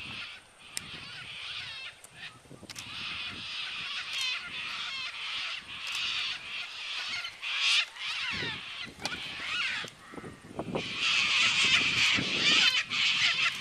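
A flock of sulphur-crested cockatoos screeching overhead, harsh calls overlapping one after another, loudest over the last few seconds.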